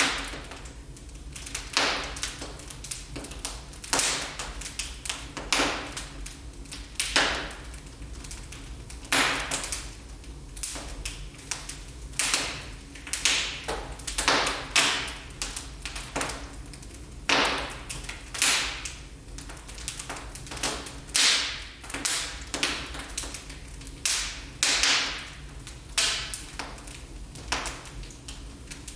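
Wood fire crackling in a fireplace: irregular sharp pops and snaps, roughly one or two a second, over a low steady rumble.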